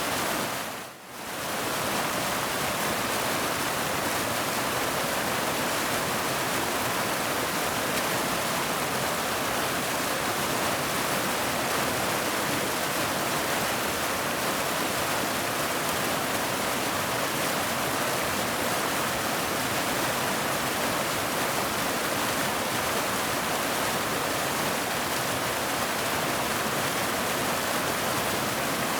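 Steady rushing roar of a waterfall, even and unbroken apart from a brief dip in loudness about a second in.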